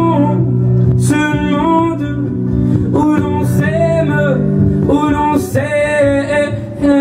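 Acoustic guitar strummed under a held, sung melody: the closing bars of a live acoustic song.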